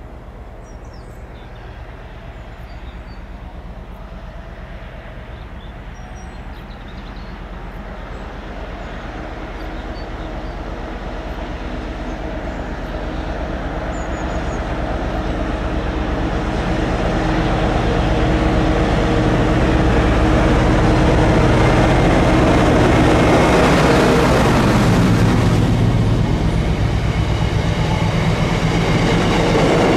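Diesel-hauled freight train approaching, the locomotive's engine and the rumble of the wagons growing steadily louder for about twenty seconds, then passing close at full volume.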